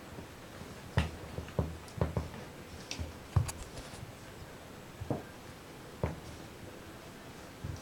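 Cats scuffling with cushions: a series of irregular soft thumps, about nine, with a few sharper clicks and scrapes among them.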